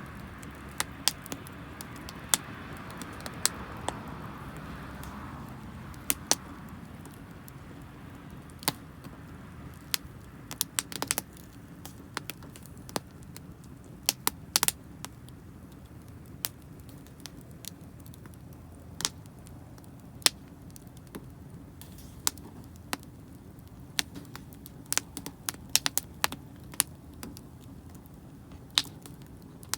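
Wood campfire of damp firewood crackling, with irregular sharp pops and snaps and a soft hiss that fades after the first few seconds.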